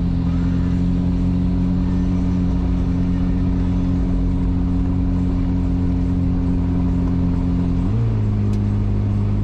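A 4WD's engine running steadily while driving, a constant drone; about eight seconds in the engine note steps down to a lower pitch.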